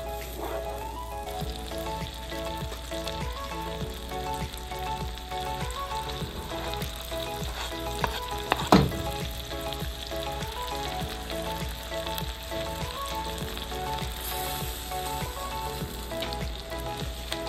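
Chopped onion sizzling as it fries in butter in a pan, stirred with a wooden spoon. Near nine seconds in there is one brief loud knock as chopped bacon is tipped in from a plastic board, and the sizzling goes on. Soft background music with a stepping melody runs underneath.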